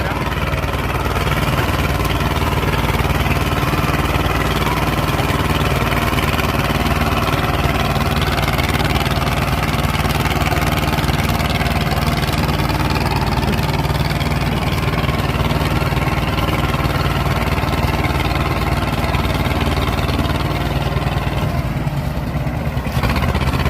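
Swaraj 724 tractor's diesel engine running at a steady speed.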